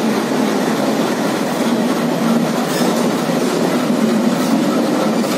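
Passenger train running on the tracks through the station: a steady, continuous rumble of wheels on rail.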